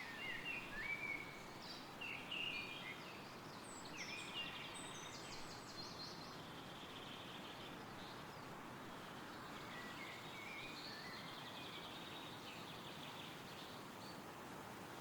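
Faint wind rustling through woodland trees under birdsong: several small birds calling with short chirps and trills, busiest in the first few seconds, with a thinner trill later on.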